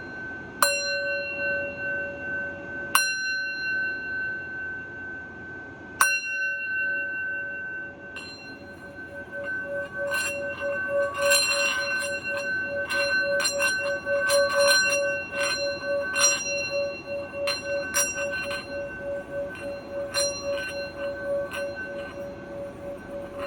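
Singing bowl struck three times, each strike ringing on with a low hum and higher overtones. From about eight seconds the rim is rubbed with the mallet, sustaining a steady, pulsing tone with a scatter of small clicks over it.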